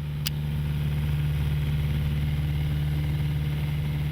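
Light propeller aircraft's piston engine running steadily, with one short click shortly after the start.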